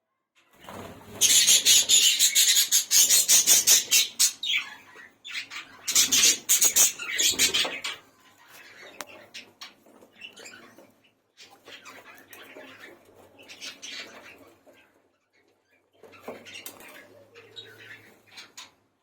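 Budgerigars chirping and chattering, with two loud flurries of rapid chirps and wing noise about a second in and again around six seconds in, then softer, broken chatter.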